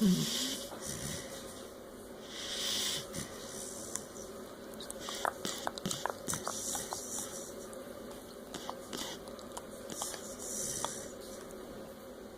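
Sleeping dog snoring: slow, wheezy, hissing breaths every few seconds, with a short snort at the start. A scatter of small clicks comes in the middle.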